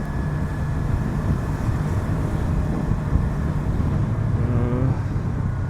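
Yamaha R25's 250 cc parallel-twin engine running steadily under the rider, with road and wind noise.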